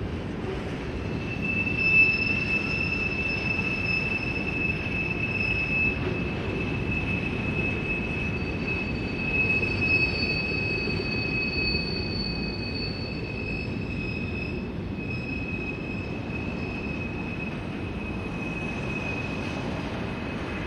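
Covered grain hopper cars of a freight train rolling past: a steady rumble of steel wheels on rail with a high, thin wheel squeal held through most of it. The squeal is loudest about two seconds in and again around ten seconds in.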